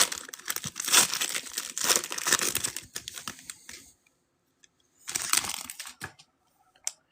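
Wrapper of a football trading-card pack being torn open and crinkled, a dense crackle for about four seconds, then a shorter crinkle about five seconds in and a single sharp click near the end.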